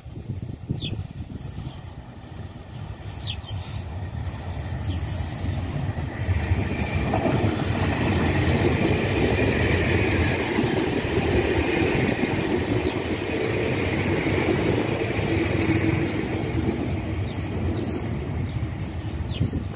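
Electric multiple-unit passenger train passing close by on the rails: a rumble that builds about six seconds in, is loudest as the cars go by with a steady high whine over it, and eases a little near the end as the train pulls away.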